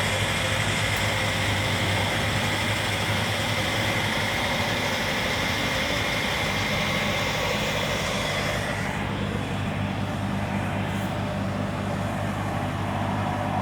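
Boom lift's engine running steadily under load as the lift is maneuvered, with a hiss and a thin whine over it that fade out about two-thirds of the way through while the engine hum carries on.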